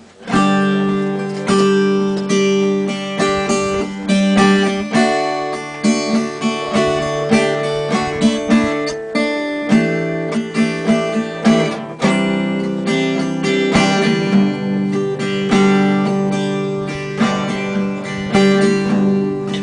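Acoustic guitar strummed in a steady rhythm, starting just after the first moment: the instrumental intro of a country song before the singing comes in.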